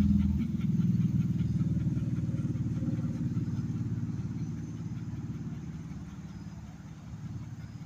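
A motor vehicle's engine, a low steady drone that slowly fades.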